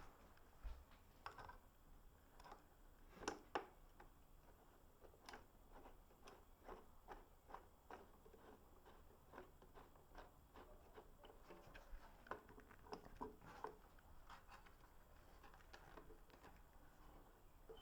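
Faint, irregular clicks and taps of tools and parts being handled during work on the motorcycle's exhaust, with two louder knocks a few seconds in.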